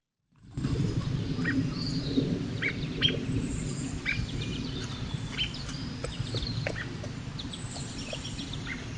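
Wild birds chirping, many short calls scattered throughout, over a steady low outdoor rumble.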